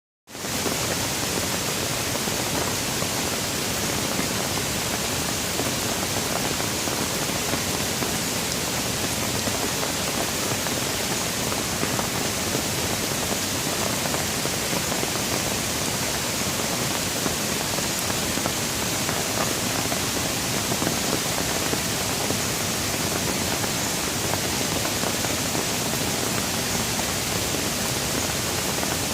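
Steady rain falling, an even, unbroken hiss that fades in at the very start and holds a constant level, with no thunder.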